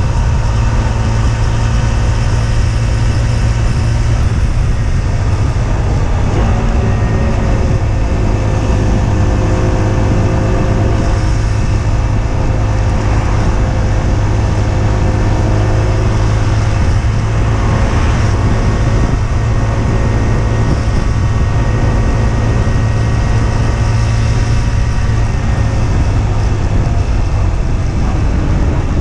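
Husqvarna Svartpilen 125's single-cylinder four-stroke engine running under way at a steady pace, its pitch drifting only slightly.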